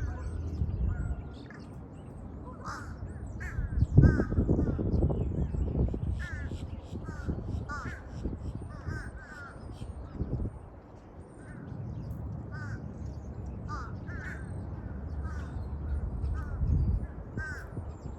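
Crows cawing over and over, short calls every second or so, over a low rumble, with a louder burst of rumble about four seconds in.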